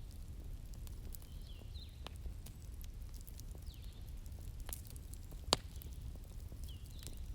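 Wood fire crackling: scattered sharp snaps and ticks over a low steady rumble of the flames, with one loud pop about five and a half seconds in.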